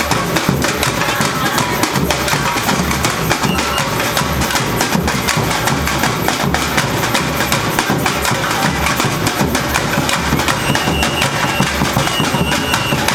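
Brazilian university bateria, a samba-style drum and percussion ensemble, playing a dense, driving rhythm with a steady low bass-drum pattern under many sharp strokes.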